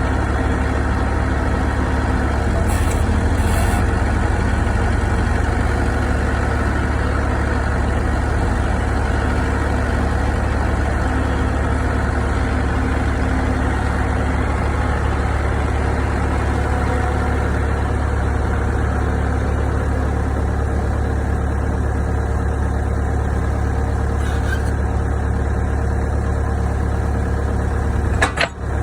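Excavator's diesel engine running steadily at a constant speed, with a brief click and drop in level near the end.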